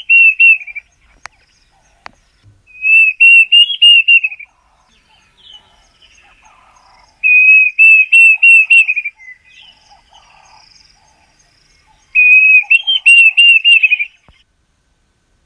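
A bird singing: four phrases of rapid, slurred whistled notes, each lasting up to about two seconds, separated by pauses of a few seconds.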